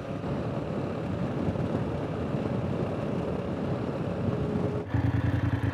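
Dual-sport motorcycle riding on a gravel road: engine running under rough wind and road noise. About five seconds in, an abrupt switch to a louder, steady low engine hum.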